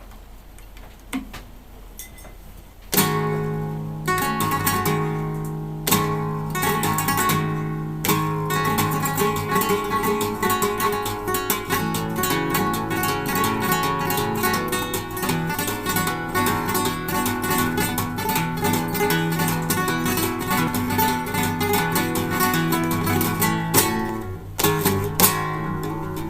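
Solo acoustic guitar playing a taranta, a flamenco form, beginning suddenly about three seconds in with plucked notes and strummed chords.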